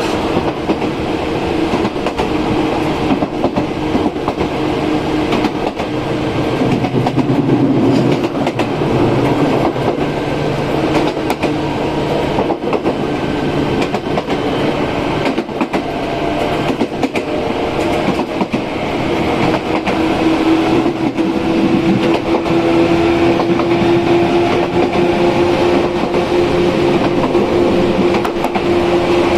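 Izu Kyuko 8000 series electric train under way, its Hitachi-made traction equipment giving a low-pitched hum with steady tones. About two-thirds of the way in, one tone grows louder and rises slightly in pitch. Wheels click over rail joints throughout.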